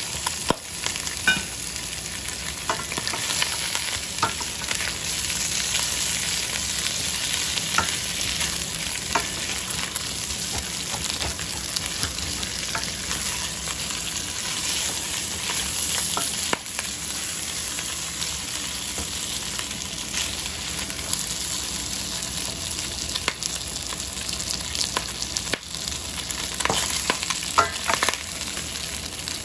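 Food sizzling steadily in a hot pan, with occasional sharp clicks and scrapes of a utensil stirring it.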